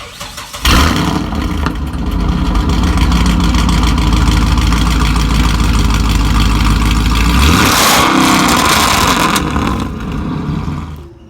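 Chevrolet Caprice PPV's 6.0-litre V8 with long-tube headers, a mid-muffler/resonator delete and a J-pipe axle-back exhaust starting up about a second in and running with a loud, steady low rumble. About eight seconds in the note turns higher and brighter for a moment, then fades away.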